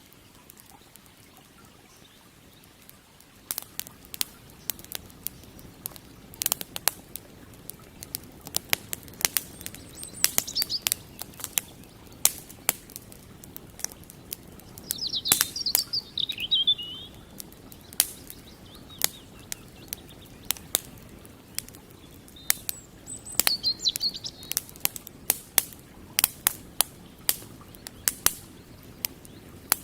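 Campfire burning with sharp crackles and pops, which start coming thick a few seconds in, over a low steady rush of the river. A songbird chirps in short phrases several times.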